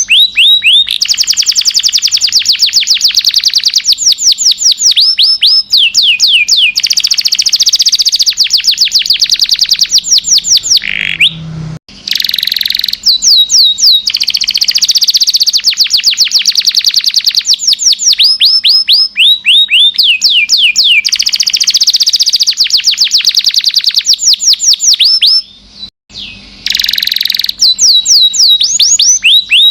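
Domestic canary singing a long, continuous song of rapid trills, each trill a quick falling whistle repeated many times a second. The song breaks off twice, briefly.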